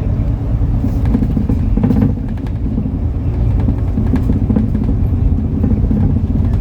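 Diesel engine of a MAN Lion's City NL293 city bus running steadily with a deep drone, eases off slightly about two seconds in, with scattered rattles and clicks from the bus.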